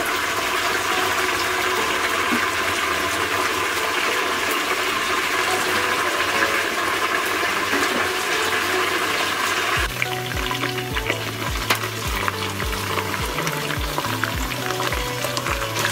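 Oil sizzling as sliced onions fry in a pressure cooker, a steady hiss with fine crackle. About ten seconds in, background music with a bass line and a steady kick-drum beat comes in over it.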